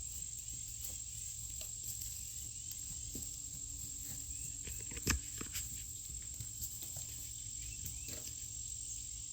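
Insects trilling in one steady, high-pitched tone, over a low rumble with scattered faint clicks. One sharp click comes about five seconds in.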